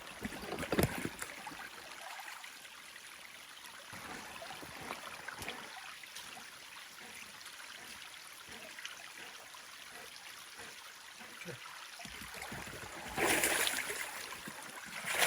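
Shallow stream trickling and gurgling steadily, with a few light knocks in the first second and a louder burst of splashing noise near the end.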